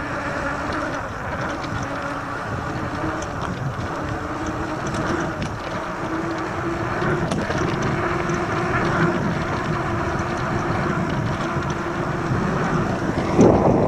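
Riding noise from an EGO Seagull 500W 48V electric bike under way: a steady rush of wind and rolling noise with a faint steady hum, growing slightly louder, and a louder gust near the end.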